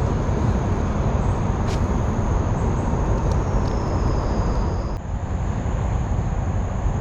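Steady rushing rumble of running creek water with wind buffeting the microphone, heaviest in the low end, with a faint high steady whine over it. The upper part of the sound changes abruptly about five seconds in.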